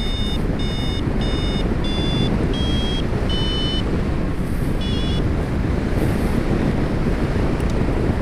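Wind rushing over the microphone in flight, with a flight variometer beeping about twice a second for the first four seconds, a rising-lift climb tone, then a short quick cluster of beeps about five seconds in.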